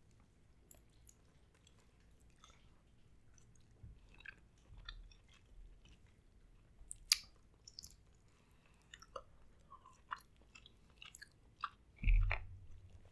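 Close-up chewing of seafood, with small wet mouth clicks and smacks and a sharp click about seven seconds in. Near the end comes a dull thump as a lemon half is set down on the table.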